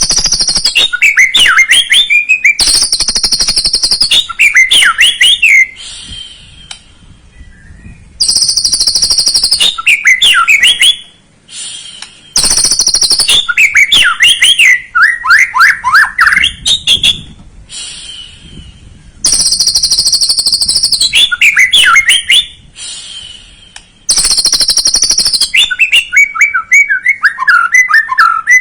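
White-rumped shama (murai batu) song, used as a lure song to rouse a young shama into singing. The loud phrases repeat about every five or six seconds with short pauses. Each begins with a high, harsh rattling buzz, full of clicks, then runs into a quick series of whistled notes that slide downward.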